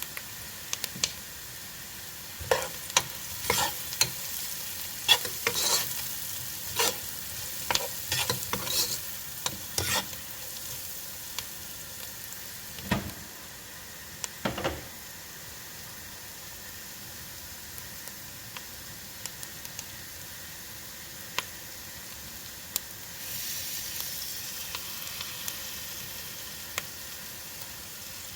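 Food frying in a cooking pot with a steady sizzle while a utensil stirs it, scraping and knocking against the pot many times during the first ten seconds and only now and then after that. The sizzle grows louder a little past two-thirds of the way through.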